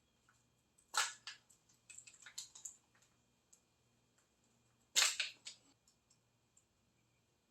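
Two sharp knocks, one about a second in and a louder one about five seconds in, with a run of lighter clicks and clatters between them.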